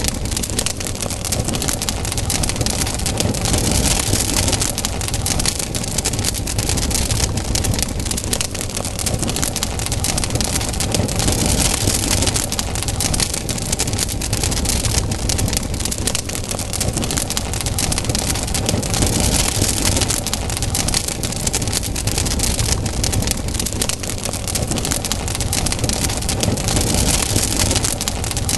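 Campfire burning, the wood crackling with many small pops over a steady low rush of noise.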